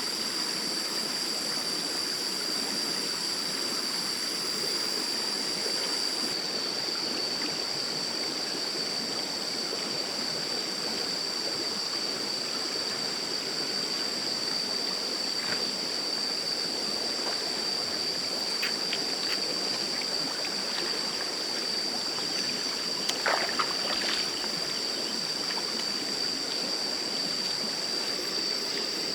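Stream water running steadily over stones, with a steady high-pitched whine above it. A few brief, sharper sounds stand out about two-thirds of the way through.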